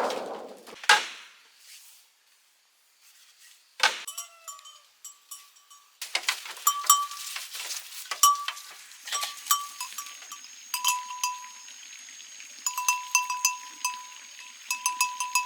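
Irregular metallic clanks of a small bell, each ringing at one fixed pitch, struck many times over from a few seconds in. A few sharp noisy knocks come first.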